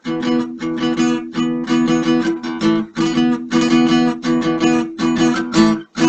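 Acoustic guitar strumming chords in a steady rhythm without singing, closing a song; a brief break near the end, then a final chord is struck.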